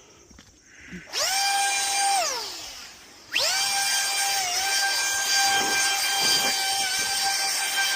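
Electric power tool motor whining at a high steady pitch: a short run of about a second that winds down with falling pitch, then a longer run starting about two seconds later that cuts off suddenly near the end.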